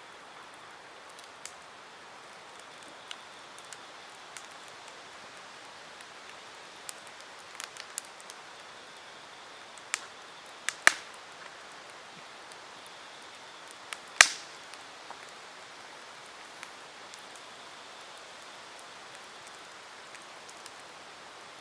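Campfire crackling: scattered small pops over a soft hiss of burning wood, with two loud sharp pops, one about eleven seconds in and a louder one about fourteen seconds in.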